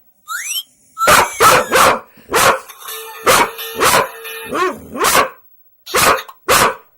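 A short rising whistle from a sound-effects toy, then a dog barking about a dozen sharp, separate barks at the toy's noises.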